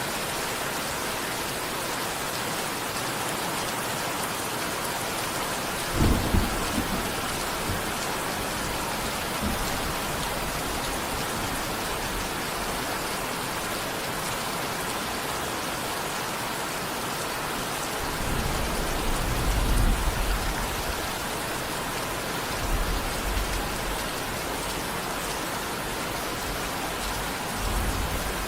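Steady rain with thunder: a sharp clap about six seconds in, a longer rolling rumble a little past the middle, and fainter rumbles near the end.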